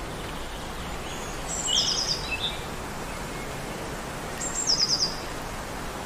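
A small bird singing two short high-pitched phrases about three seconds apart, each a quick run of four or five notes, over a steady background hiss of outdoor ambience.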